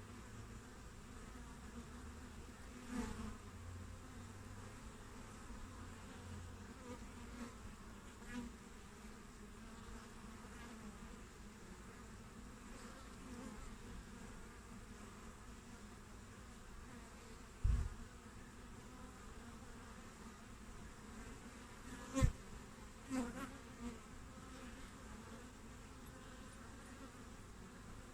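Honeybees humming at a busy hive entrance, a steady faint drone with single bees buzzing louder as they pass close a few times. A low thump comes about two-thirds of the way through and a sharp tap a few seconds later.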